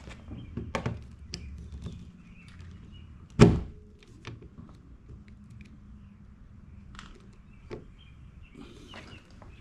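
A single loud metallic thunk about three and a half seconds in, with a brief ring after it, among scattered light clicks and taps of tools and parts being handled.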